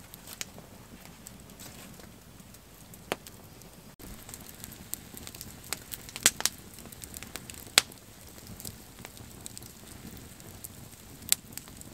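Wood fire crackling, with sharp pops scattered every second or so over a low hiss. The loudest pops come a little past the middle.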